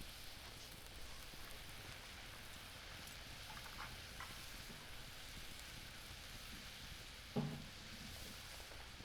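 Chicken and sliced leek simmering in mentsuyu broth in a skillet over a wood fire, with a faint steady sizzle and a few small pops. There is a single low knock about seven seconds in.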